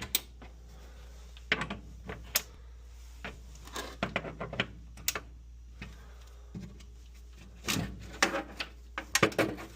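Irregular sharp knocks, clicks and clunks of hands working on the furnace cabinet, with a quick run of several close together near the end, over a low steady hum.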